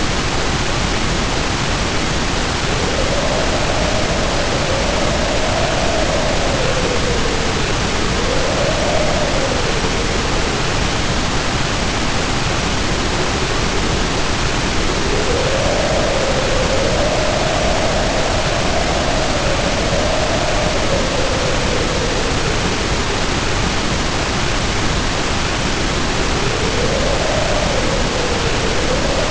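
Storm ambience: heavy rain pouring steadily under a howling wind. The howl rises and falls in pitch in slow gusts lasting several seconds each, fading out for a few seconds in the middle.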